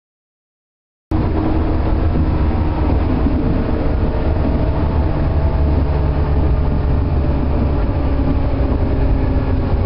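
Running sound of a renewed JR 113 series electric multiple unit (mixed 1000 and 1500 subseries set S66), a steady low hum with several held tones from the motors and gears. It cuts in suddenly about a second in after silence, the start of a separate recording.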